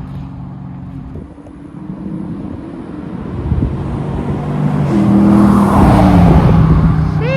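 The 5.7-litre HEMI V8 exhaust of a 2021 Dodge Charger R/T with its resonators deleted, running loud. The exhaust note swells through the middle and eases slightly near the end.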